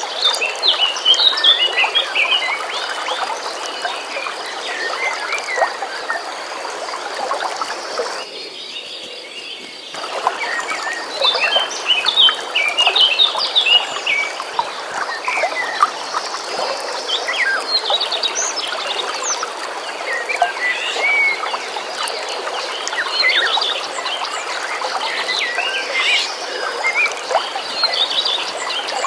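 Many small birds chirping and singing over the steady rush of a flowing stream, with a faint steady high tone running through. About eight seconds in, the sound thins out sharply for a couple of seconds, then the birdsong and water return.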